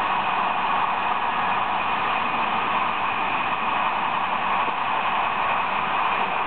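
Corail Intercités coach running at speed along the line: a steady, even rushing of wheels on rail and air.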